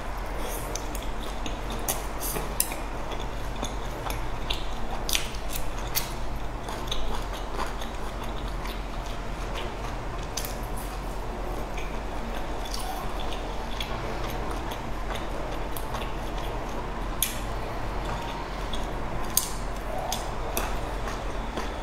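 Close-up mouth sounds of chewing soft boiled dumplings: wet smacking with irregular sharp clicks throughout.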